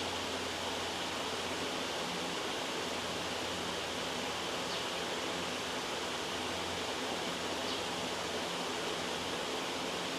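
Steady, loud white-noise hiss that does not change, with two faint ticks about five and eight seconds in.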